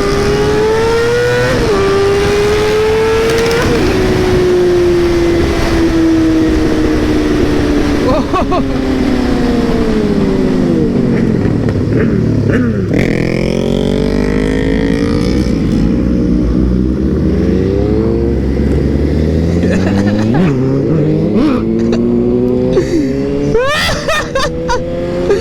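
Suzuki GSX-R 600's inline-four engine under way. Early on it accelerates through two quick upshifts, then its revs fall steadily as the bike slows, before it pulls hard again with rising revs. Near the end it eases off briefly and climbs once more.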